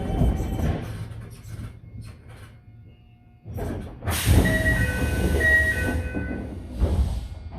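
Toei 5300 series electric train drawing to a stop, its motor whine falling in pitch and dying away. Then a loud hiss of released air sets in at the doors, with a two-note chime repeating twice over it, and a thump near the end.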